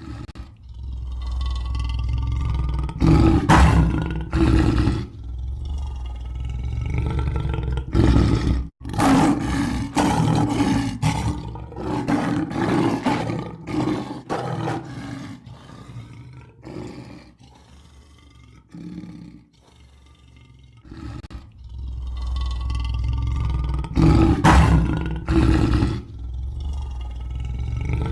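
Lion roaring: a string of deep roars, loudest about three seconds in, again about eight seconds in and near the end, with quieter spells between.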